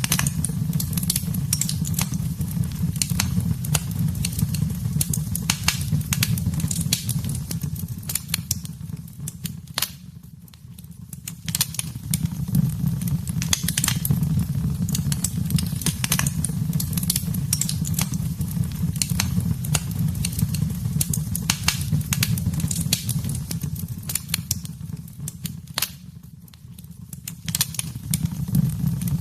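Wood fire in a fireplace crackling and popping irregularly over a steady low roar of the flames. The sound fades down and back up twice, about ten seconds in and again near the end.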